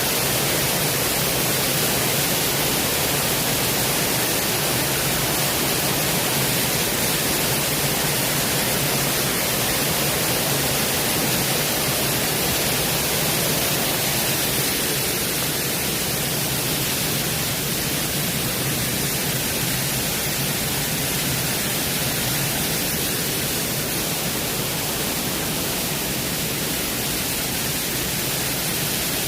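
Waterfall rushing, a loud, steady, even noise of falling water.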